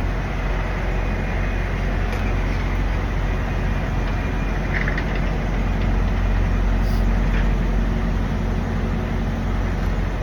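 Steady low drone of idling diesel truck engines, with a few faint ticks over it.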